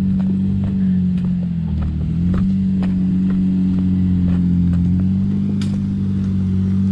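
Jeep engine running at low, steady revs as it crawls up a rocky trail, its pitch dipping briefly about two seconds in, with scattered light clicks.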